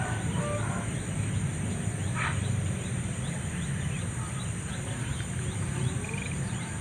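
Countryside morning ambience: a steady high insect drone with short bird chirps scattered throughout, one louder call about two seconds in, over a constant low rumble.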